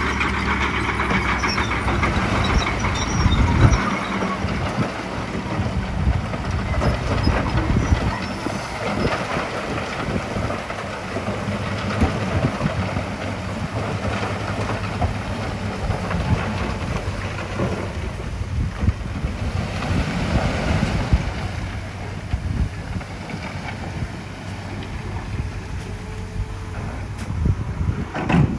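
Heavy diesel construction machinery running, a steady engine drone at first, then joined by continual clanking and rattling.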